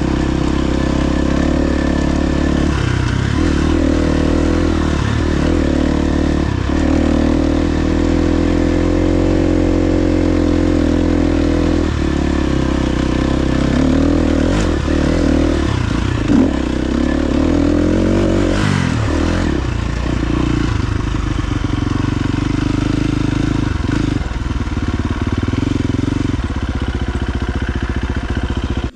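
KTM 350 XC-F dirt bike's single-cylinder four-stroke engine running under way on a trail, its pitch stepping up and down repeatedly as the throttle and gears change, with a few sharp knocks from the bike over rough ground.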